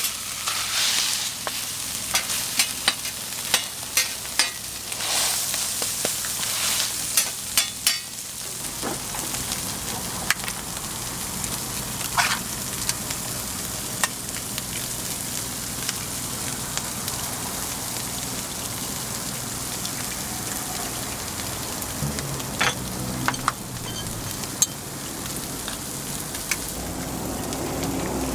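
Food sizzling on a hot griddle in a steady hiss, with sharp taps and scrapes of a metal spatula, many in the first eight seconds and a few more near the end.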